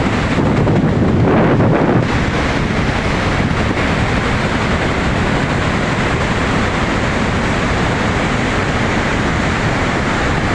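Waterfall: a steady, loud rush of falling water, a little louder in the first two seconds.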